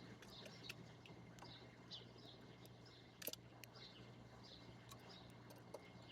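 Faint chirping and twittering of small birds, with scattered sharp clicks, the loudest about three seconds in.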